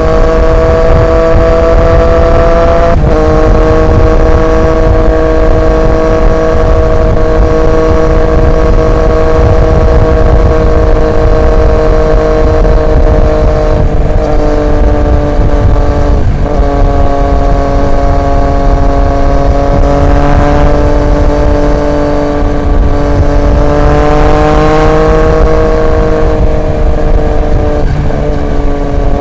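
Triumph Street Triple 765 RX's three-cylinder engine through an SC Project S1 exhaust, cruising at a steady engine speed. The note drifts slowly in pitch, with a few brief breaks where it dips and settles again.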